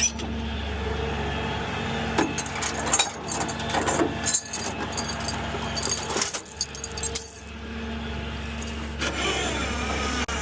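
Tow truck engine idling steadily, with a spell of clinking and rattling from about two seconds in to about seven and a half seconds in.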